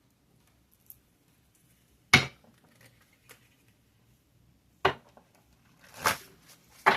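Three sharp knocks of hard objects striking a hard surface, a couple of seconds apart, with a short rustle just before the last one.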